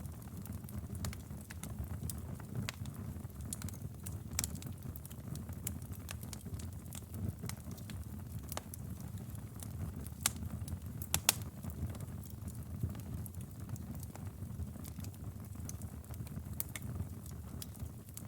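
Campfire burning: a steady low rumble of flames with scattered sharp crackles and pops, two louder pops a little past the middle.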